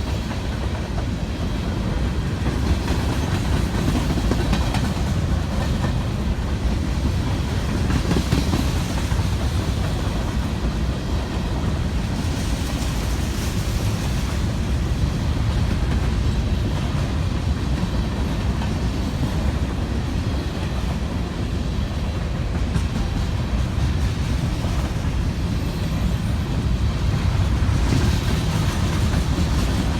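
Freight train rolling past, a steady loud rumble of its cars on the rails.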